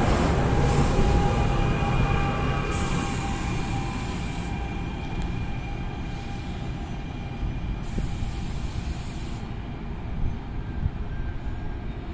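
Commuter train passing and pulling away: a rumble of wheels on rail that fades steadily, with thin high whining tones that die out about halfway through.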